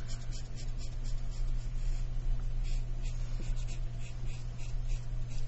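Felt-tip marker strokes rubbing on paper, a run of short scratchy strokes a few times a second as an area is coloured in. A steady low hum runs underneath.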